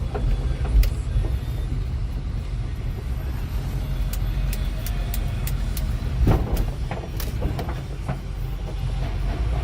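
A motor vehicle running: a steady low rumble, with a scatter of short clicks in the middle and one louder thump about six seconds in.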